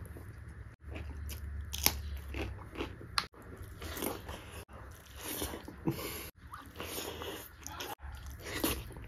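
A person eating beef curry and rice by hand, chewing with wet mouth clicks and lip-smacks, the mukbang eating sound. It is broken by several abrupt cuts where the sound drops out for an instant.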